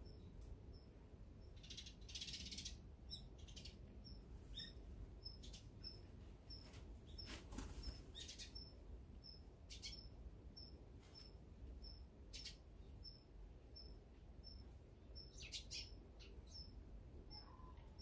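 Small birds chirping in short scattered calls, over a steady run of short high pips about two a second.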